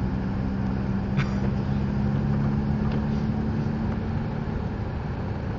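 Car engine and tyre noise heard from inside the cabin while driving, a steady low drone with a constant hum. The hum's upper note fades out near the end.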